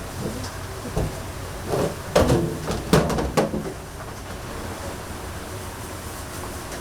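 A few sharp knocks and clatter, bunched between about two and three and a half seconds in, over a steady background hum.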